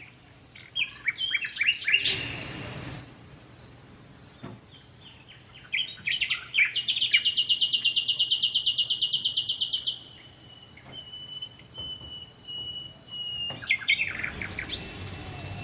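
Songbirds singing: quick high chirps, then a rapid, even trill lasting about three seconds, a thin steady whistle, and another trill near the end. A brief rush of noise comes about two seconds in.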